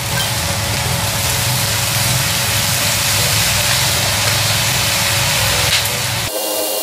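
Yakisoba noodles frying in a pan as they are stirred with chopsticks: a steady sizzling hiss over a low rumble. About six seconds in it cuts to background music.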